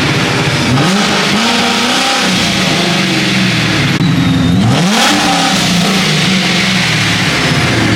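Loud performance car engine revving, its pitch climbing about a second in and again sharply around four and a half seconds in, over the steady run of other engines idling.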